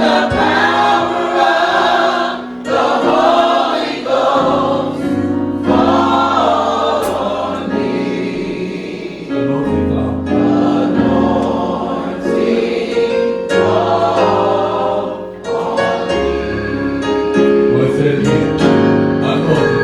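Gospel choir singing in phrases over a steady instrumental accompaniment with sustained low notes.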